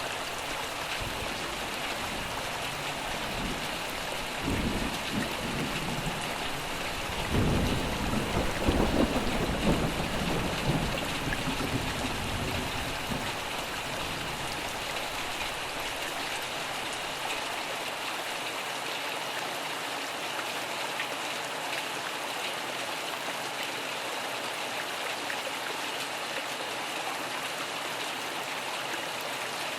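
Steady rain with a roll of thunder that rumbles in about four seconds in, swells to its loudest near the middle, and dies away; rain alone remains after that.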